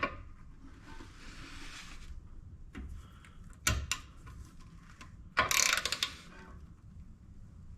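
Handling noises from work on a toilet tank: a scraping rub for about a second, a few knocks, then a louder clatter about five and a half seconds in.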